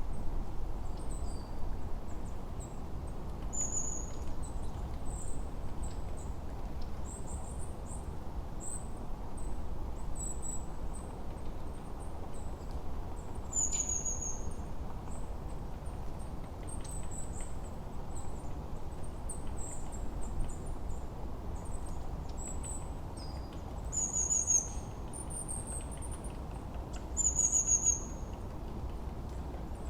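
Forest birdsong from many small birds: short high chirps and trills, with a clear falling whistle every few seconds. Under the birds runs a steady low rumble of wind.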